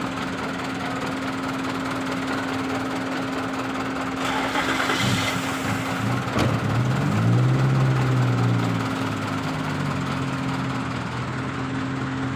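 Car engine running steadily, with a short hiss about four seconds in. About six and a half seconds in the engine note rises, then settles back to a lower, steady note.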